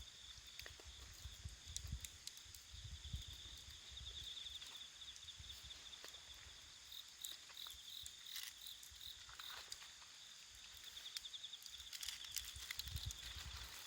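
Wood fire burning with scattered sharp crackles and pops, under the steady pulsing trill of night insects such as crickets.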